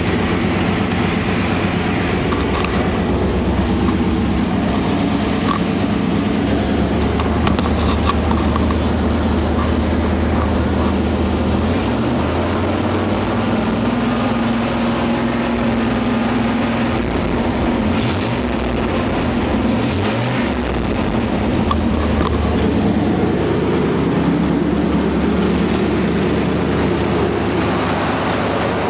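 Chevy 350 small-block V8 with throttle-body injection, running steadily in a stationary 1989 Suburban; its pitch shifts a little about halfway through. It is heard from the cab at first and from the open engine bay near the end.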